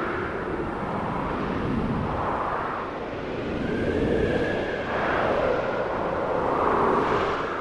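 Snowstorm wind gusting and howling, its whistle slowly rising and falling in pitch over a steady rumble.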